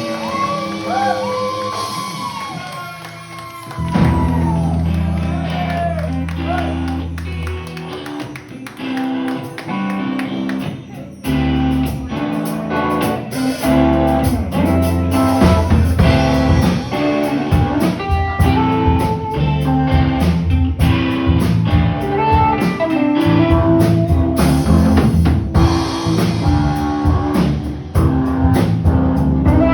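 Live rock band playing, with guitar, bass and drums. In the first few seconds pitched lines bend up and down over thinner backing, then heavy sustained low notes and a full beat come in about four seconds in.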